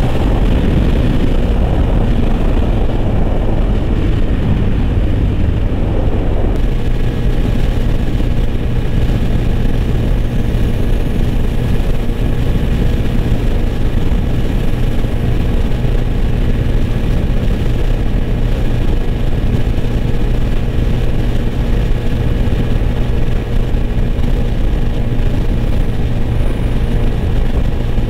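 125 cc single-cylinder four-stroke motorcycle engine running steadily at speed, heard from on the bike, with wind rush. About six seconds in, the sound changes abruptly to another bike's engine running at a steady speed.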